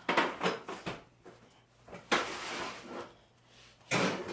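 About five short knocks and scuffs, spaced irregularly, with quiet gaps between them.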